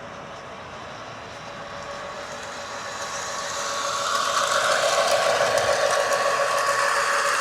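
Lionel O gauge GP38 model diesel locomotive running on the track, a steady hum with a constant pitch that grows louder from about two seconds in and holds loud from about four and a half seconds in.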